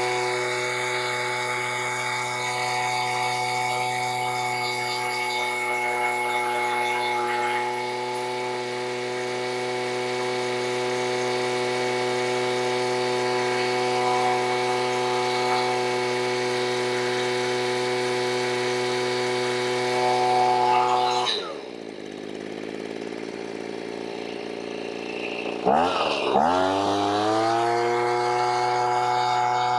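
Stihl BG85 leaf blower's two-stroke engine running steadily at full throttle, then dropping quickly to idle about 21 seconds in and revving back up to full speed about five seconds later. It pulls cleanly and evenly at both speeds after carburetor cleaning and adjustment, which the owner takes as running normally.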